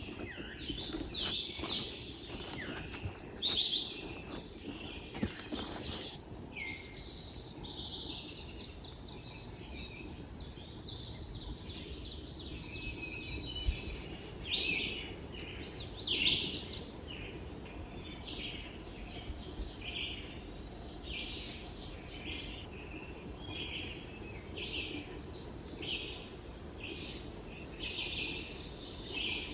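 Songbirds singing in woodland: a continuous run of short chirps and song phrases, one louder burst about three seconds in.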